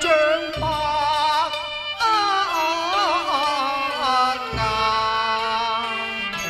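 Cantonese opera music: an instrumental passage with a sliding, ornamented melody over a low accompaniment that comes in twice.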